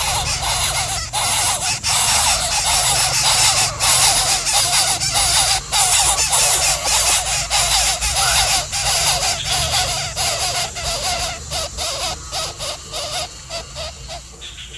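Baby coucal's rapid, harsh repeated begging calls, fading toward the end.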